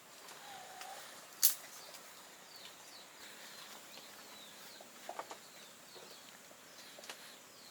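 Small birds chirping in short calls, with a few sharp clicks, the loudest about one and a half seconds in.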